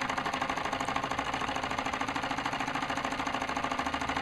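Mamod SE2 toy steam engine, a single oscillating cylinder, running steadily under steam pressure with a fast, even beat of about ten strokes a second.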